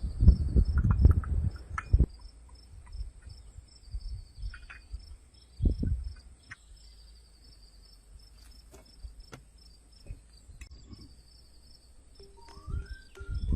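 Crickets chirping in a faint, steady pulsing trill, with a few low knocks in the first two seconds and once near the middle. Music begins near the end.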